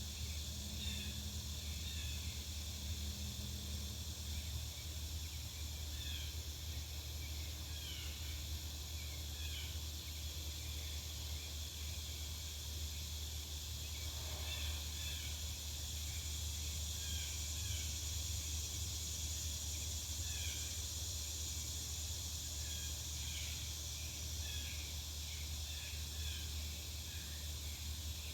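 Backyard ambience: small birds chirping on and off throughout, over a steady low rumble and a faint high hiss.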